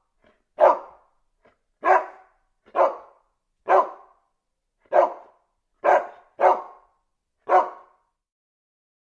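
A dog barking: eight single barks at roughly one a second, each with a short fading tail. The barks stop about eight seconds in.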